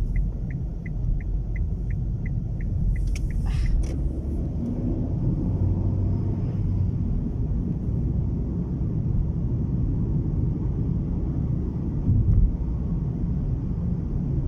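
Heavy low rumble of wind buffeting and road noise inside a moving car's cabin in a strong gale. A light, even ticking, about three a second, runs through the first three seconds or so, followed by a brief clatter.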